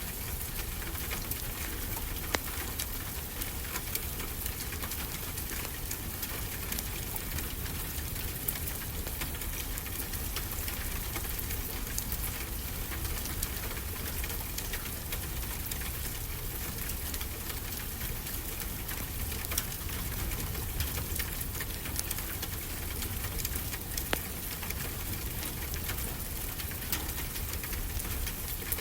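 Wood fire crackling, with frequent sharp pops, over a steady hiss and low rumble of ocean surf.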